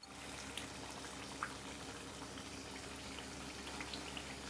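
Puris deep-frying in hot oil: a faint steady sizzle with scattered small crackles.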